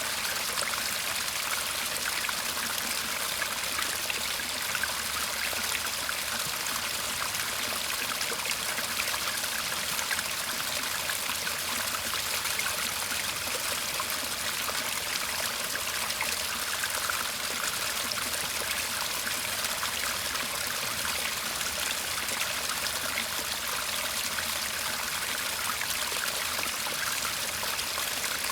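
Shallow garden stream babbling and trickling steadily over stones, an even rush of water with no breaks.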